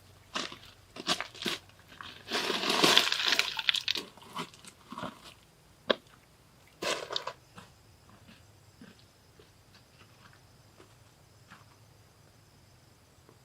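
Irregular crunching and rustling, loudest about two to four seconds in, with a last short burst about seven seconds in. After that, only a faint, steady, high insect drone.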